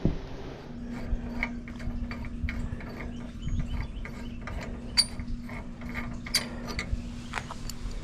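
Irregular mechanical clicks and clanks, a few to several a second, over a steady low hum that begins under a second in.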